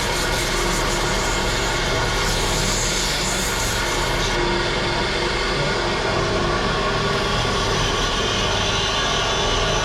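A power tool's motor running steadily under load, a constant noisy hum with several steady tones; the highest hiss drops away about four and a half seconds in.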